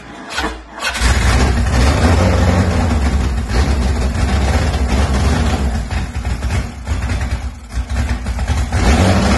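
Car engine with twin carburettors being started for the first time: a few stuttering firings, then it catches about a second in and runs unevenly, its revs sagging and picking up again several times.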